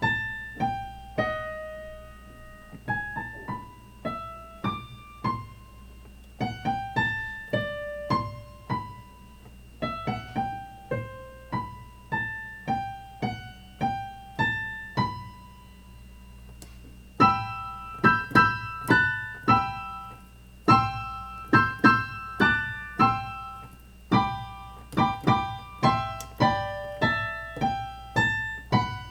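Piano playing a simple beginner's tune, one note at a time at first. About seventeen seconds in it becomes louder, with several notes struck together.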